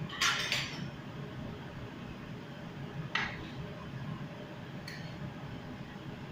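Cooking utensils clinking against a pan while stir-frying chop suey: a short clatter just after the start, then single clinks about three and five seconds in, over a steady low hum.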